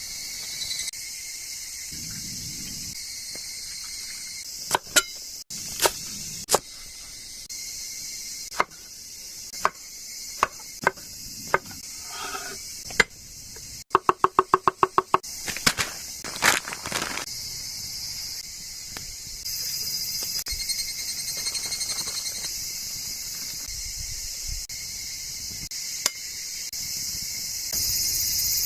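Steady chorus of crickets and other insects, with scattered sharp knocks and clicks of camp cooking over it, including a fast run of about ten clicks around halfway.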